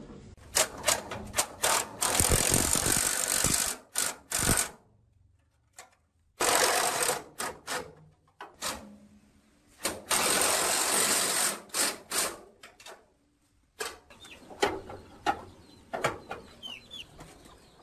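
Repeated bursts of loud hissing noise, each a second or two long, with sharp clicks between them; a bird chirps a few times near the end.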